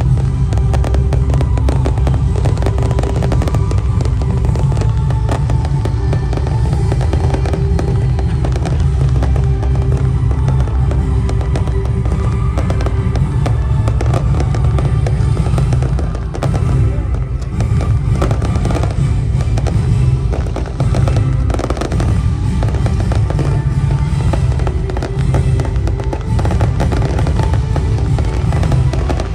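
Fireworks crackling and popping in a rapid, unbroken stream, with music playing loudly alongside.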